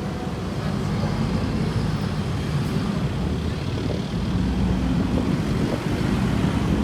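Passenger train running along the track: a steady low rumble of wheels on rails that grows slightly louder.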